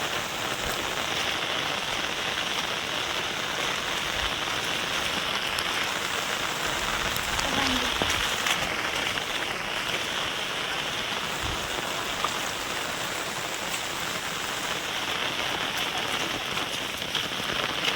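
Heavy rain falling steadily: a dense, even hiss with scattered sharper ticks of single drops.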